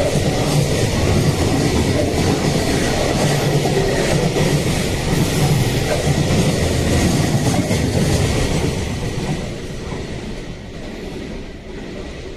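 Freight train passing close by, its wagons clattering over the rail joints, the noise dropping away over the last few seconds as the train goes by.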